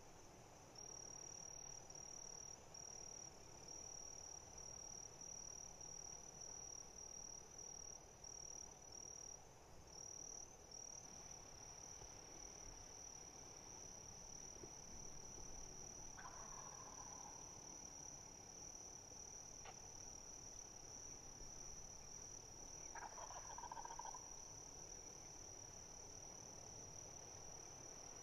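Faint insect chorus: a steady high-pitched trill that pulses in short bursts at first, then runs unbroken from about a third of the way in. Two faint short calls come through, one around the middle and one later.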